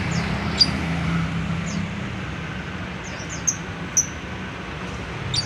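Lovebirds giving a scattered series of short, sharp, high chirps, the loudest about half a second and four seconds in, over a steady low background hum.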